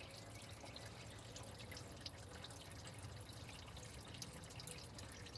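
Engine coolant draining from a Silverado into a bucket, a faint steady dribble with small drips.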